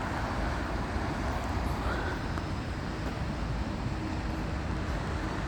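Steady road traffic on a wet street: a continuous low rumble with a haze of tyre noise and no single standout event.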